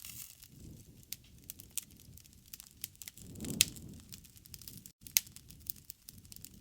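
Wood campfire crackling, with scattered sharp pops over a low rumble of flame. The rumble swells about three and a half seconds in and peaks with the loudest pop.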